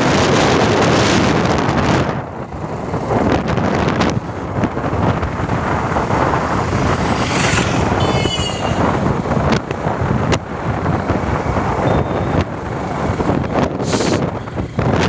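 Wind buffeting the microphone from a moving vehicle on the road, with vehicle and road noise underneath. A brief warbling high sound about eight seconds in.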